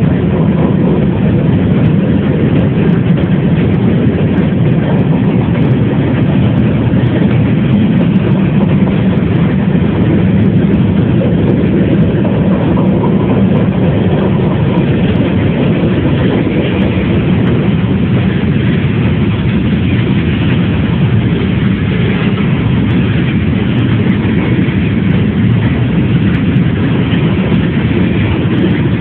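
Train rolling past with a steady, loud rumble that does not change over the stretch.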